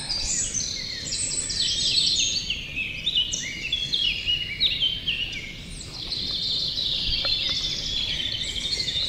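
Small birds chirping continuously, many calls overlapping, over a steady low background noise.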